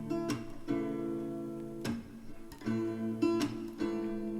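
Background music: an acoustic guitar strumming chords, with no singing in this stretch.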